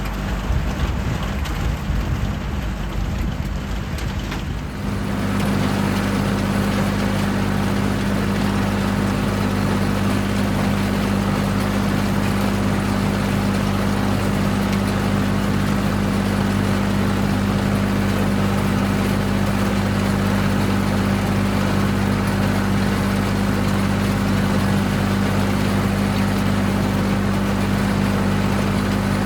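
Farm tractor engine running while a cover-crop patch is mowed for hay. About five seconds in, a rougher rumble gives way to a steady drone that holds.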